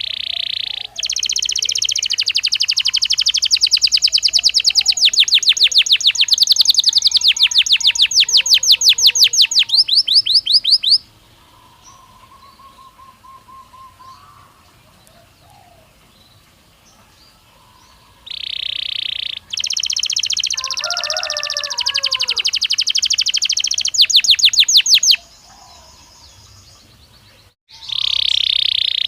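Belgian canary singing in long, loud phrases of fast, rapidly repeated high trills. The first phrase lasts about ten seconds and a second about seven, with a short burst near the end. Between the phrases are quieter stretches of faint chirps.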